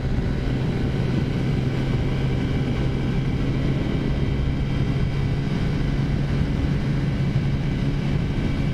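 Taotao 50cc four-stroke scooter engine, fitted with a big bore kit, running at a steady cruising speed with an even, unchanging drone.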